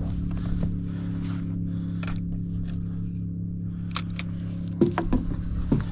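Scattered small clicks and knocks of a redfish and tackle being handled in a kayak, a few sharper ones near the end, over a steady low hum.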